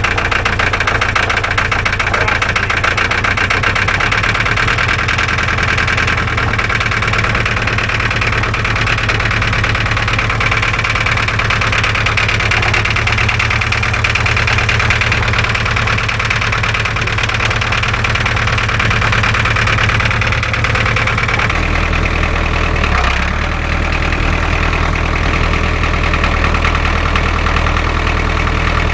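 An engine running steadily at idle, its low note changing about three-quarters of the way through.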